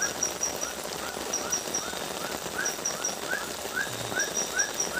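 Night animal calls over a steady hiss: one caller repeats a short rising-and-falling chirp about three times a second, while another gives quick runs of three or four very high ticks every second or so.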